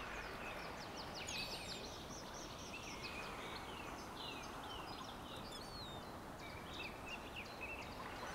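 Small birds chirping and calling, many short notes and quick down-sweeping calls, over a steady outdoor background hiss.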